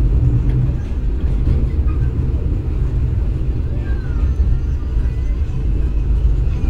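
Passenger train running at speed, heard on board: a steady low rumble of wheels on rails and air rushing past.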